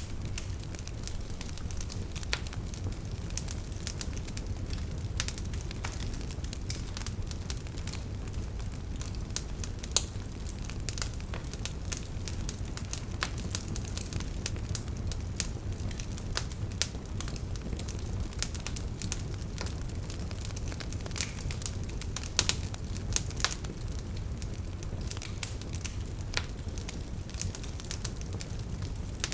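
Wood campfire burning, crackling steadily with frequent sharp pops over a low, steady rumble of the flames.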